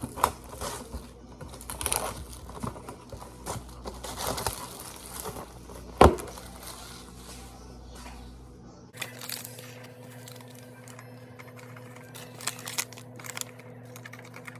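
Packages rustling and jars and containers clicking as things are handled and set down in a pantry, with one sharp knock about six seconds in. In the second half, lighter taps and clicks over a faint steady hum.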